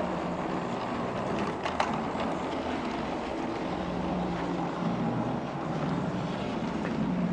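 LGB G-gauge model train running steadily around its track: an even electric-motor hum with the wheels rolling on the rails, and a couple of faint clicks nearly two seconds in.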